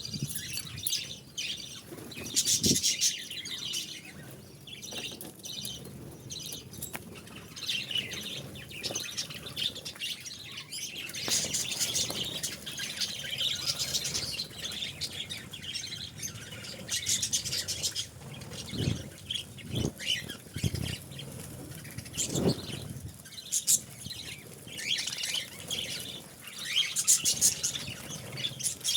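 Budgerigars chirping and chattering continuously, with a few short knocks among the calls.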